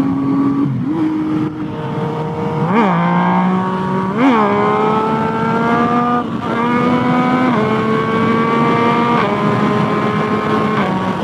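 Yamaha FZ-09's three-cylinder engine with a full aftermarket exhaust, pulling through the gears while riding: the engine note climbs steadily and drops back at each shift several times, with two quick sharp blips of revs early on.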